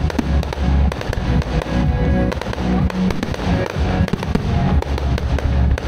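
Fireworks display: aerial shells bursting in the sky with repeated bangs and crackling. Loud show music with a heavy bass plays over the park's PA system at the same time.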